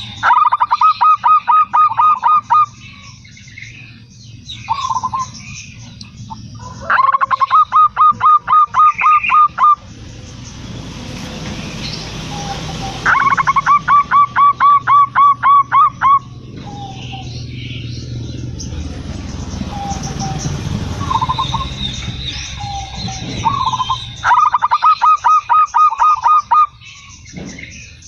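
Zebra dove (perkutut) song: four runs of rapid, evenly repeated cooing notes, each lasting two to three seconds, with shorter single calls and fainter bird chirps between them. A low rumbling noise rises in the middle, between the second and fourth runs.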